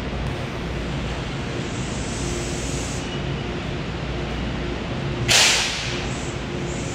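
Metro-North M8 electric train standing in the station with its equipment humming steadily, and a short, loud burst of air hiss about five seconds in that fades within half a second.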